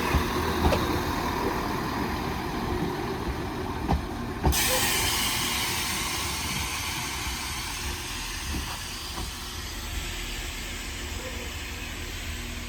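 Class 195 diesel multiple unit standing at the platform after braking to a stop, its engines running low, with a few short knocks. About four and a half seconds in, a hiss of released air from the train's brake or door air system starts suddenly and eases a few seconds later.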